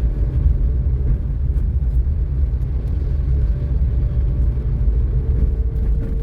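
Car on the move: a steady low road and engine rumble with a faint steady hum.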